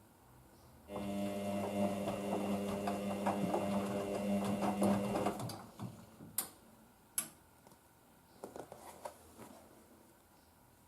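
Hoover DYN9144D3X washing machine running: a steady motor hum with clicks mixed through it starts suddenly about a second in and stops after about four and a half seconds. A few sharp clicks and knocks follow.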